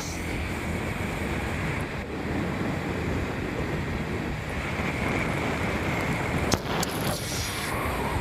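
Steady wind rush over the microphone of a moving motorcycle, with engine and road noise underneath. There is one sharp click about six and a half seconds in.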